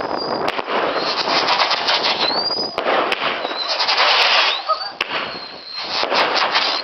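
Consumer fireworks going off in a display: dense crackling and rapid pops, with a few short rising whistles. The crackle thins out briefly near the end.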